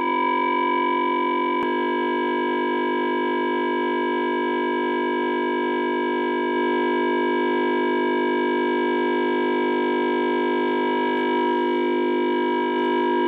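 Two electronic oscillators sounding steady tones together: an unchanging electronic drone with many overtones. The lower part of the sound shifts slightly about a second and a half in.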